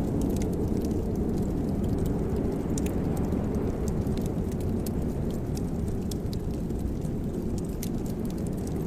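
Wood fire burning in a fireplace: a steady low rushing with scattered sharp crackles and pops.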